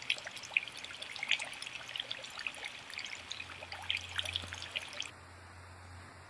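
Water trickling and dripping in a dense patter of small splashes, which stops abruptly about five seconds in.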